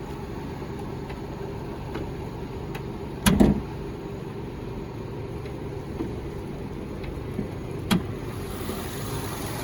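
Nissan Rogue's 2.5-litre four-cylinder engine idling steadily, with a loud double thump about three seconds in and a sharp click near the end as the hood is released and lifted.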